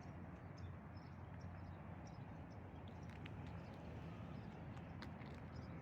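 Faint outdoor ambience: a steady low rumble with many short, faint high chirps or ticks scattered through it.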